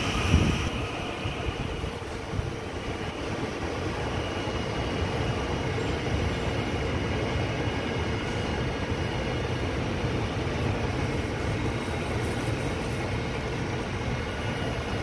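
ITX-Saemaeul train carriages rolling past along the platform track, a steady rumble of wheels on rails with a brief low thump about half a second in.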